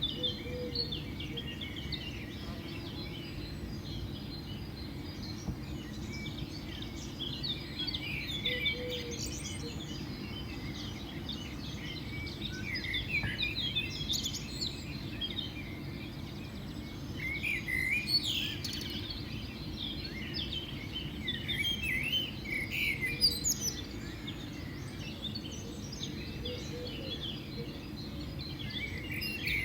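Several small birds chirping and calling in quick short notes, busiest through the middle, over a steady low background rumble.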